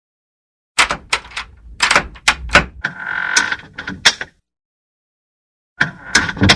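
Door and its hinges creaking and clattering: a quick run of sharp clicks and knocks with a short creaking squeal about three seconds in, then another brief run of clicks near the end.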